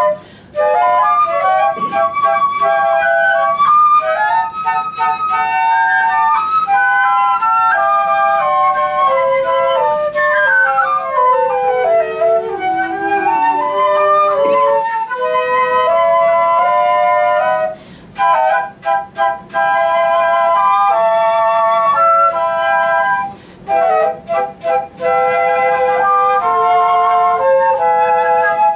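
Flute music: a melody played with quick rising and falling runs, breaking off briefly twice in the second half.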